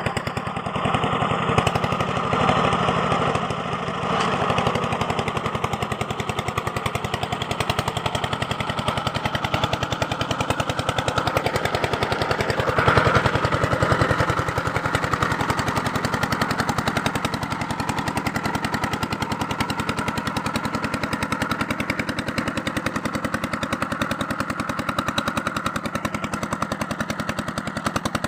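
A small engine running steadily with a rapid, even chugging beat, briefly louder about halfway through.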